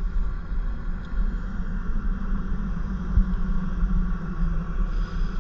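Steady low rumble of a vehicle engine running, with no clear change in pitch.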